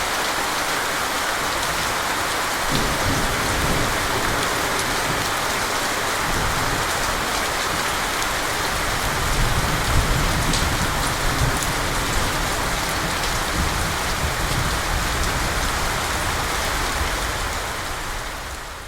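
Wind blowing with a steady rushing hiss, and gusts buffeting the microphone in low, uneven rumbles from about three seconds in. It fades out at the very end.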